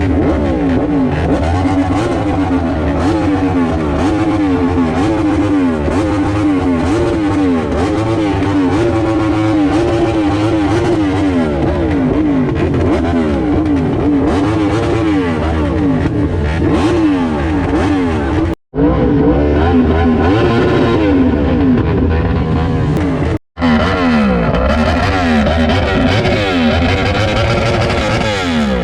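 Yamaha R1's inline-four engine with an SC Project exhaust being free-revved at standstill: quick repeated blips of the throttle, the pitch rising and falling again and again. The sound cuts out briefly twice.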